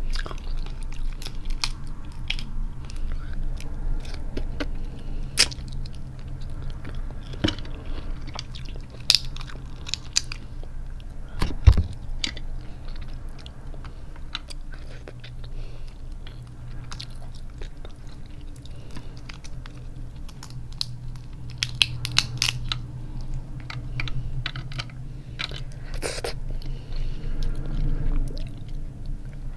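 Close-up eating sounds: chewing of crab meat mixed with scattered clicks and crackles of cracked crab shell being picked apart by hand. A single sharp knock about twelve seconds in is the loudest sound.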